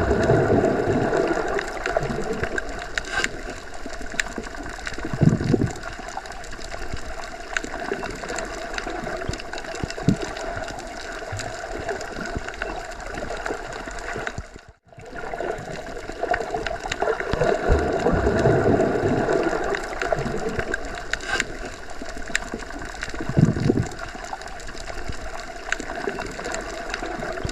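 Underwater ambience: continuous muffled water movement with faint steady hum-like tones. It cuts out almost completely for a moment about halfway through, then resumes.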